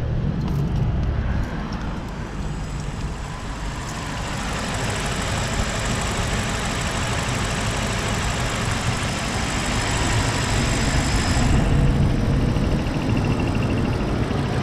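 BMW 745Li's 4.4-litre V8 idling steadily just after starting, with a thin high whine running over it.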